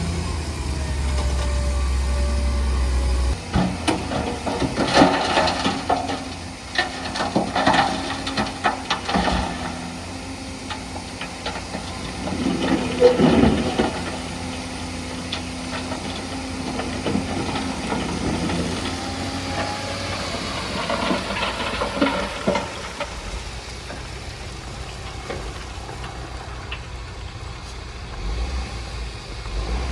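Heavy diesel earthmoving machinery at work. An engine runs steadily at first, then gives way to bouts of metal clanking and rattling a few seconds in, again near the middle and about two-thirds through, with a hiss in between.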